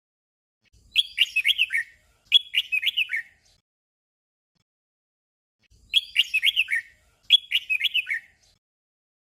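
Red-whiskered bulbul singing: a short warbled phrase given twice in quick succession about a second in, then the same doubled phrase again about five seconds later.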